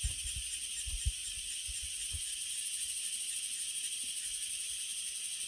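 Steady chorus of insects chirring, a continuous high pulsing drone, with a few soft low thuds in the first couple of seconds.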